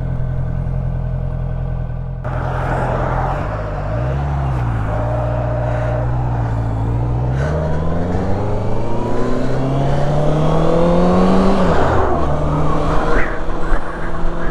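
Honda CB650F inline-four motorcycle engine running steadily, then pulling away and accelerating, its pitch climbing for about four seconds before dropping sharply at a gear change near the end. Wind noise comes in a couple of seconds in.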